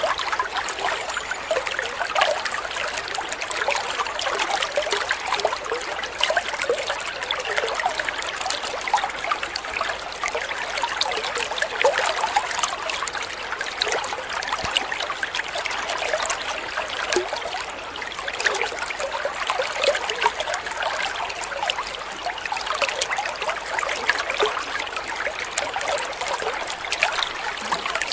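Stream water trickling and babbling, steady and unbroken.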